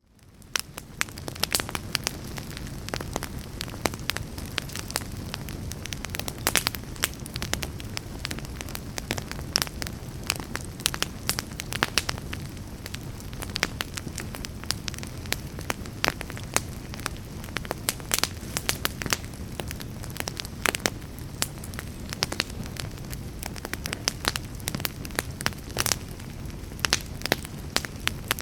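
Campfire burning: frequent sharp crackles and pops over a steady low rumble of the flames, fading in over the first second.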